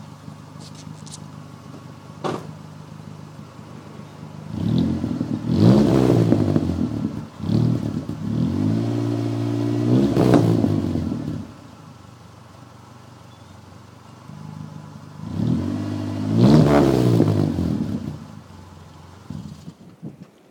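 1997 Saturn SC1's four-cylinder engine breathing through a Cherry Bomb glass pack muffler, idling steadily and revved up three times. The middle rev is held for a few seconds before the engine drops back to idle.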